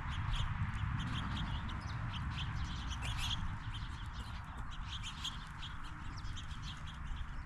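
Squirrels and blue jays working peanuts on a feeding table: quick, irregular clicking and crunching of peanut shells being gnawed, cracked and picked at, over a low rumble.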